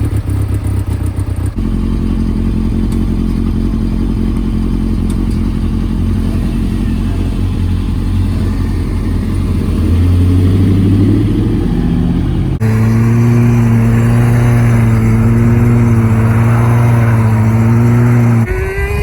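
Motorcycle engine running steadily. About ten seconds in it revs up, rising in pitch. The sound changes abruptly twice, at about one and a half seconds and near thirteen seconds.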